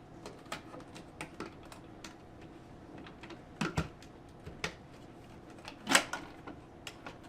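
Hard plastic parts of a new upright vacuum being handled: scattered light clicks and taps, with a couple of louder knocks near four seconds in and the loudest knock about six seconds in.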